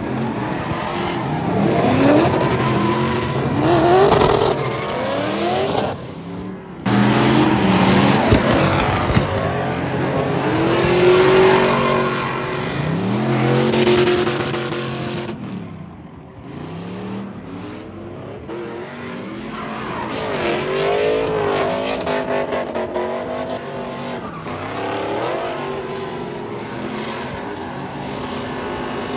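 Truck engine revving hard, its pitch climbing and falling again and again, with tires spinning and squealing during burnouts.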